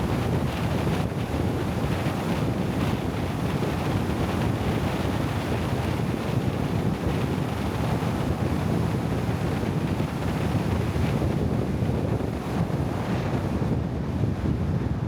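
Steady wind buffeting the microphone, with a low rush of moving water, as on a river raft under way.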